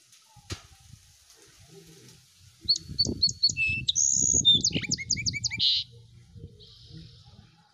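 A songbird singing a quick, varied phrase of high chirps, trills and short down-sweeping notes, lasting about three seconds from near the middle. Faint low bumps from handling run underneath, and there is one sharp click about half a second in.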